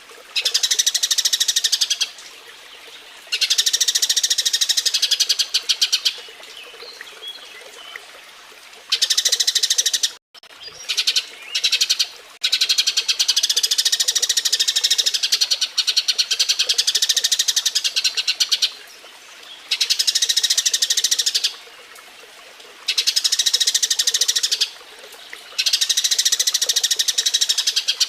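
Eurasian tree sparrows chattering: bouts of rapid, high chirps a few seconds long with short pauses between, the excited chatter of sparrows courting and mating.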